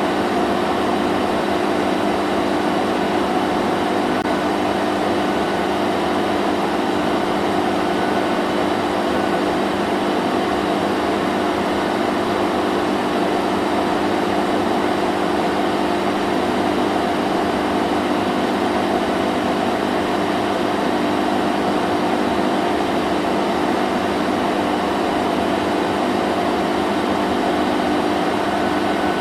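Vacuum cleaner running steadily: a constant motor hum under an even rush of air.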